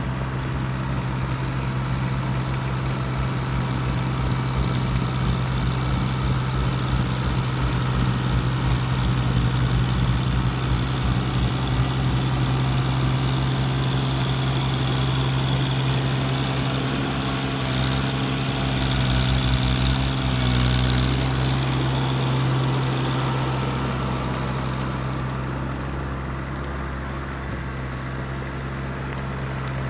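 Mahindra eMax 20S HST compact tractor's diesel engine running steadily, with a slight swell in level about two-thirds of the way through.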